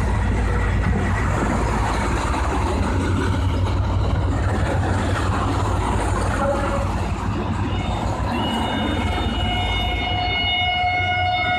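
Train pulling into a station: a heavy, steady low rumble of the locomotive and rolling wheels. About eight seconds in, several steady high-pitched squealing tones join and hold on.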